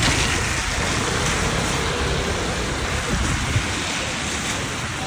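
Steady rushing noise of riding a scooter in the rain at speed: wind buffeting the microphone, rain and passing traffic blended into one continuous hiss and rumble.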